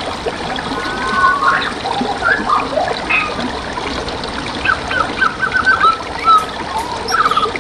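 Wild songbirds chirping and whistling over the steady trickle of flowing stream water, with a quick run of repeated notes about five seconds in and a rapid trill near the end.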